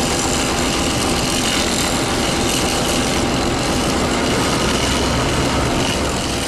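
Train noise: a steady, unchanging rumble and hiss that holds at one level throughout.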